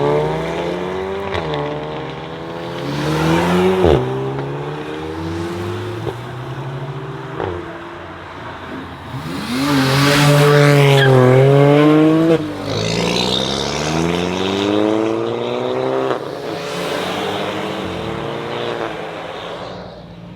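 Performance cars accelerating hard one after another, each engine rising in pitch and dropping back at every gear change. The loudest is a car passing close at full throttle about ten seconds in.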